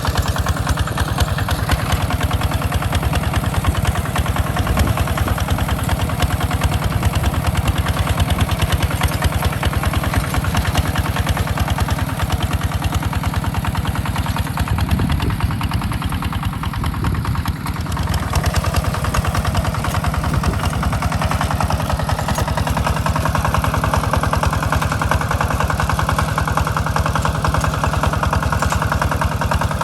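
Tractor engine running steadily at a working pace while ploughing a rice field. It dips briefly about two-thirds of the way through, then carries on.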